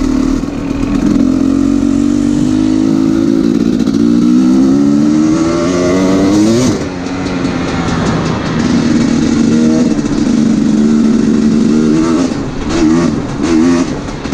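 2017 Husqvarna TE 250 two-stroke enduro engine under way: its revs climb for several seconds, drop sharply about seven seconds in, hold steady, then rise and fall in quick throttle blips near the end.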